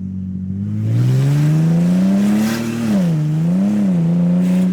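Naturally aspirated Ford Barra straight-six with its exhaust snapped off behind the headers, so it runs effectively straight-piped, being revved. From a steady idle it climbs in one long rev from about a second in, drops away near three seconds, gives a shorter second blip, then settles back to idle.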